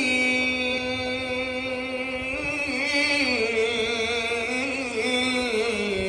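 A man's solo voice chanting an Islamic ibtihal, drawing out long ornamented notes with a wavering vibrato that step down in pitch.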